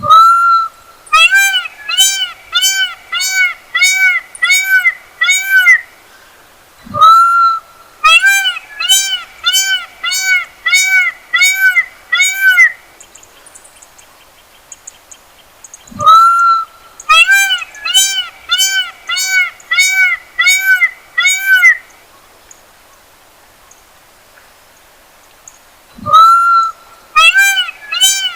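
Peacock calling: four bouts of loud, nasal, wailing calls, each a longer call followed by a quick run of about seven shorter, evenly spaced calls.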